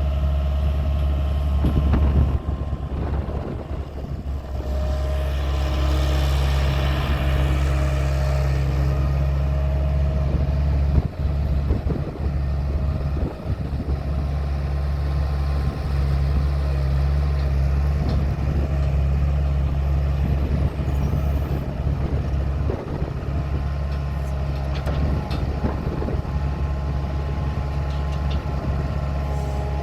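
Bobcat 743 skid steer engine running steadily, its note dipping briefly a few seconds in, with a few sharp knocks partway through.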